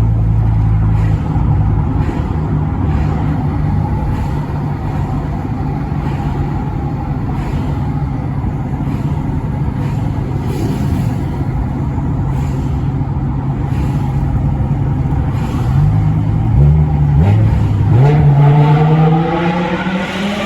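BMW M6 E64's 5.0-litre V10 engine running at steady revs, its pitch jumping up and down briefly about sixteen seconds in, then climbing steadily as the revs rise near the end.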